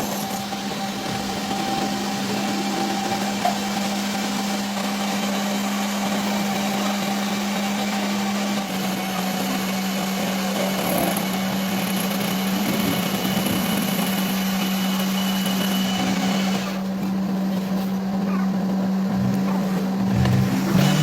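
A motor-driven machine running steadily with a constant hum, its sound shifting slightly about eight and a half seconds in.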